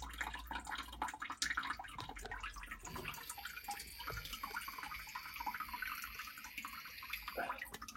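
Dripping and trickling water from a combi boiler draining down, then about three seconds in the boiler's automatic air vent opens with a steady high hiss and whistle as air is drawn in, a sign that the boiler is nearly empty of water.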